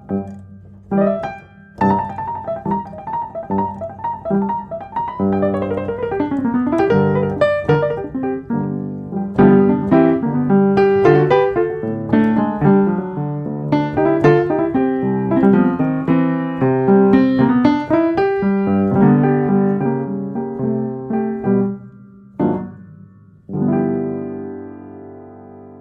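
Solo piano playing a slow, gentle piece: repeated notes and chords, with a short pause and a last held chord fading away near the end.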